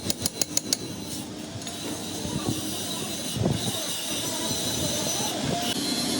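A quick run of about six sharp metallic taps, then steady mechanical noise with a high squealing hiss.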